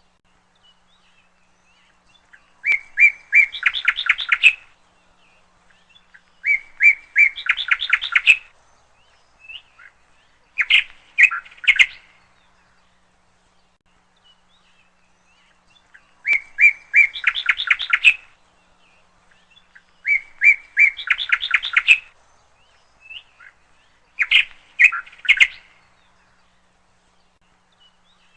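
A songbird singing in short, repeated phrases, six times. Each phrase is a few clear notes followed by a quick run of higher notes, with pauses of two to four seconds between phrases.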